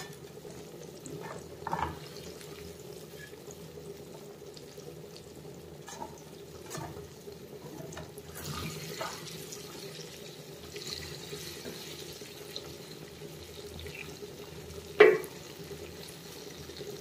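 Crumb-coated chicken pieces frying in hot oil in a pan, with a steady sizzle. A few light clicks of a metal slotted skimmer against the pan, and one sharper knock near the end.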